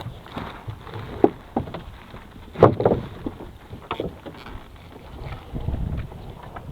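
Irregular knocks, clatter and splashes of water on a small fishing boat at sea, with a low rumble swelling briefly near the end.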